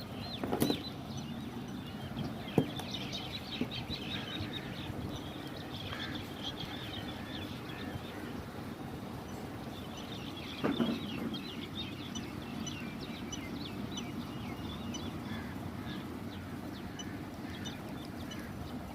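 Birds calling in the background, many short chirps, over a steady low hum, with a couple of brief knocks near the start.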